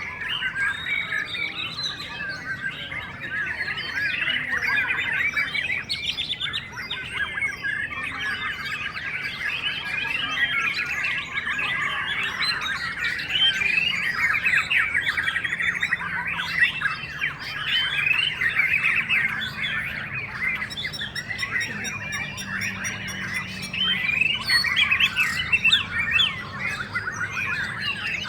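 Many caged white-rumped shamas singing at once, a dense, continuous chorus of overlapping warbles and chirps.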